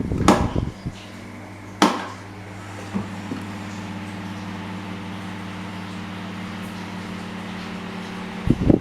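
Restored electric desk fan switched on with a few sharp switch clicks. Its motor then runs with a steady electric hum, and near the end a rush of air from the fan strikes the microphone.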